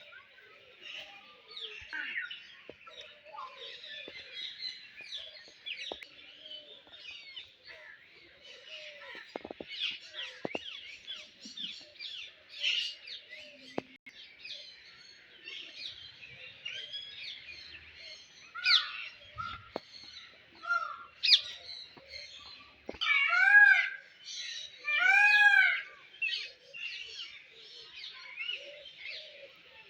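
A chorus of many caged birds chirping and twittering without pause. About three-quarters of the way in, two louder, drawn-out calls rise and fall in pitch, one after the other.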